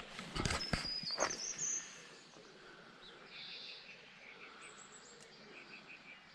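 Songbirds chirping and calling in short, scattered phrases over a quiet background. A few sharp knocks and clicks come in the first second and a half.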